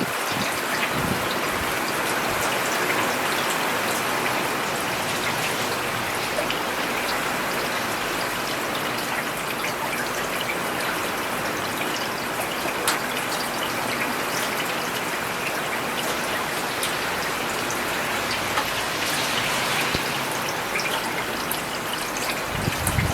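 Steady rain falling on a paved road, an even hiss scattered with the patter of individual drops.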